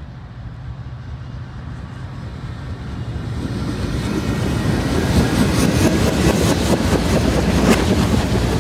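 Freight train cars rolling past on the rails, heard in reverse: a low rumble swells into a loud rattle of wheel clatter with rapid clicks over the second half.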